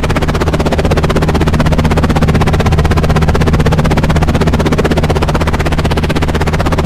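Helicopter flying, its rotor chopping in a rapid, even pulse over a steady low engine drone.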